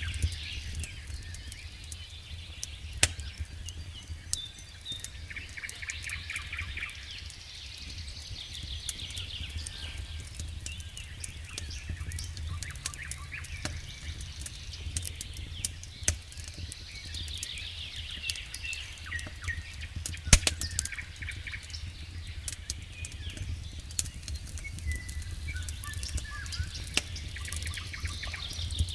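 Campfire crackling with scattered sharp pops, the loudest about three, sixteen and twenty seconds in, while small birds sing repeated chirps and trills.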